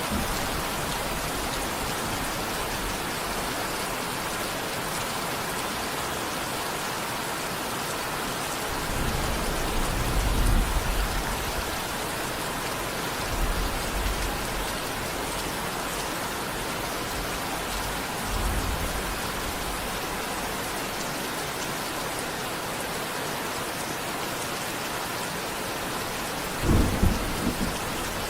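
Steady heavy rain with low thunder rumbles rolling in several times, the loudest and sharpest near the end.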